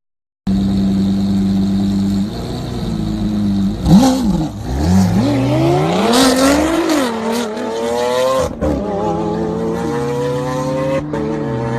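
Car engine and exhaust running steadily, a few quick revs, then accelerating hard with the pitch climbing, dropping at a gear change about eight and a half seconds in and climbing again.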